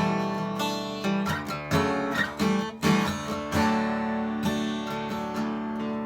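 Acoustic guitar strummed chords, an instrumental passage between sung verses.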